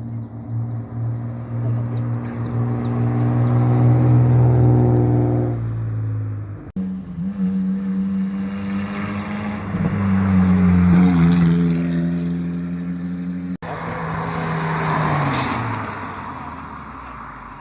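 Car engines running in three short cuts. First a steady low engine note swells and fades, then a higher engine note rises and falls. Last, an engine note drops in pitch as it slows.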